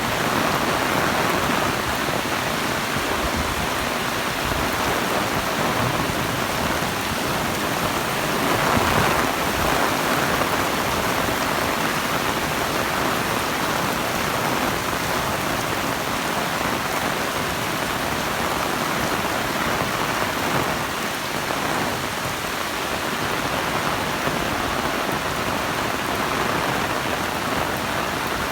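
Heavy tropical rain falling steadily, pattering on surfaces, with a slight swell about a third of the way through.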